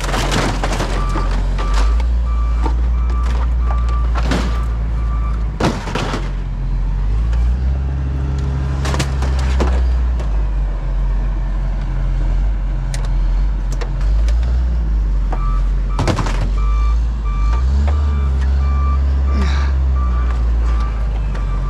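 A heavy vehicle backing up, its reverse alarm beeping in two runs, near the start and again about two-thirds through, over a loud engine rumble that rises twice. Several sharp metallic knocks or bangs fall in between.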